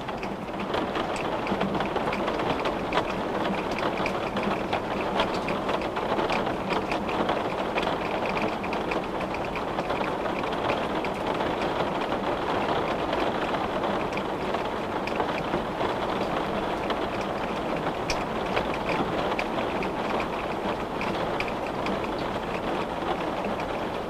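Steady rain on a window: an even rush with a dense scatter of individual drops ticking against the glass.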